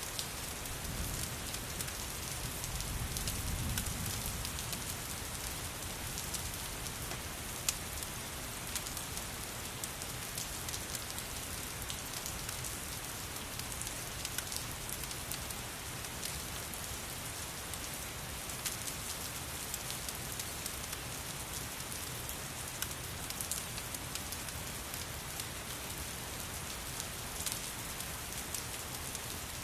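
Steady rain falling, an even hiss with scattered sharp ticks and pops, blended with a crackling fireplace. A low rumble swells briefly a few seconds in.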